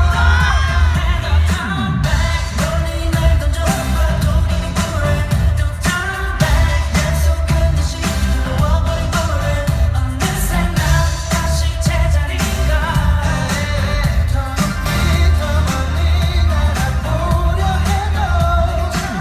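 K-pop song with male group vocals over a loud pop backing track with heavy bass.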